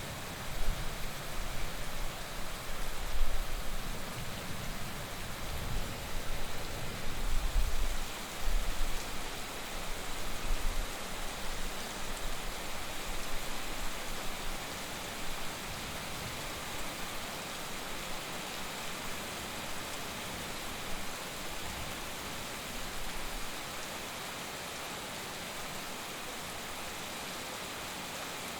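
Heavy rain falling steadily, with an uneven low rumble through the first half that dies away about two-thirds of the way through.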